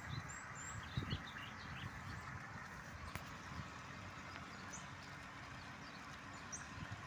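Small birds chirping, with short high chirps scattered through, over a steady outdoor hiss. A brief low thump about a second in.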